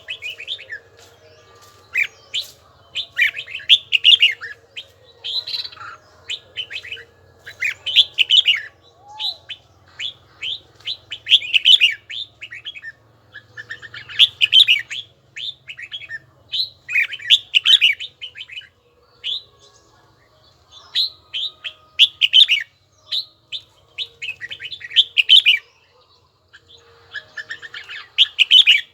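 Red-whiskered bulbul singing: short, bright, clear whistled phrases repeated every two to three seconds.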